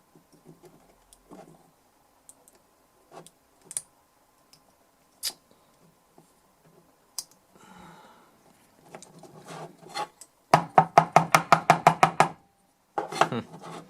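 Hands and tools working on a small metal DI box. Scattered light clicks and taps, then near the end a loud, rapid run of sharp knocks, about eight a second for two seconds, and a shorter burst of knocks.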